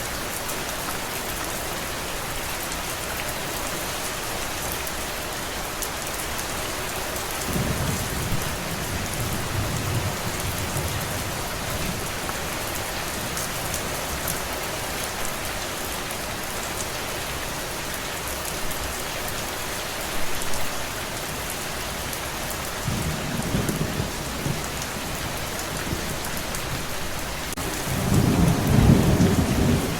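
Steady rain hissing throughout, with low rolls of thunder rumbling in about a quarter of the way in, again past two-thirds, and loudest near the end.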